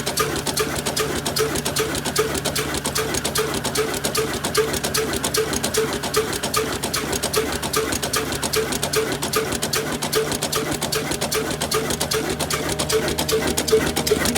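Old stationary diesel engine running at a slow, steady speed, its beat even at about two strong knocks a second over a low hum.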